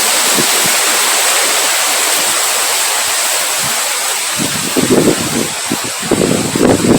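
Steady hiss of rain with gusting wind buffeting the microphone in low, uneven rumbles that grow stronger about halfway through.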